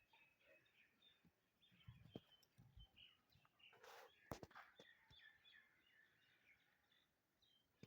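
Faint chirping of small birds: many short, quick chirps that drop in pitch, overlapping, with a couple of sharp clicks about four seconds in.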